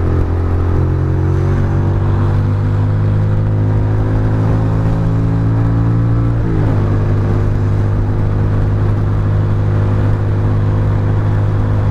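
Ducati Monster's L-twin engine running under way, its pitch slowly creeping up, then breaking and changing about halfway through before holding steady.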